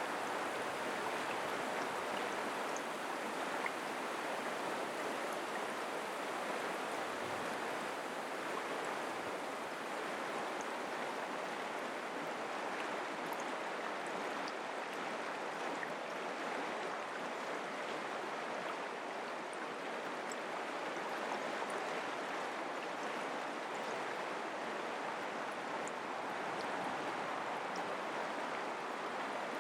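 Mountain creek water flowing in a steady rush, with faint small splashes.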